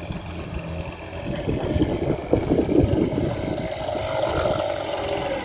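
Hangkai 6 hp outboard motor running on a small boat, a steady engine tone with rough low noise over it in the middle.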